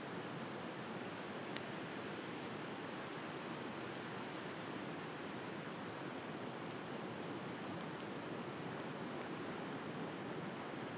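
Steady wash of sea surf, with a wood bonfire crackling on top in sparse small pops and ticks; one pop stands out about a second and a half in.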